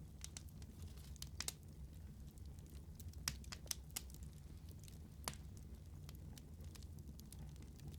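Wood fire burning in a fireplace: a low steady rumble of flame with scattered sharp crackles and pops, the loudest few about a second and a half, three to four, and five seconds in.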